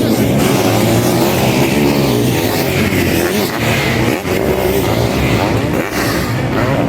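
Sidecar motocross outfits' motorcycle engines racing, revving up and down, with several engines heard together.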